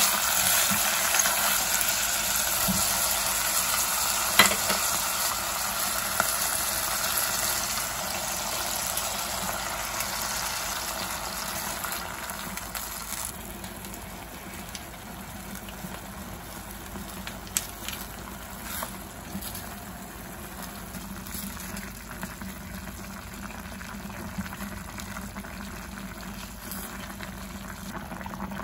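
Beef and vegetables sizzling as they are stir-fried in a clay pot, with a sharp knock about four seconds in. From about halfway through, the sound gives way to quieter bubbling and small pops as the soft tofu stew simmers in the pot.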